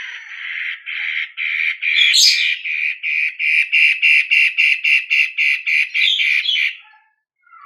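Long-tailed shrike (cendet) calling: a fast, even run of scratchy notes, about three a second, that stops about seven seconds in.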